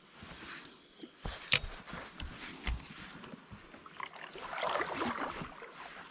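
Small knocks and bumps on a fishing kayak, the sharpest about a second and a half in, then a brief swish of water against the boat about four seconds in.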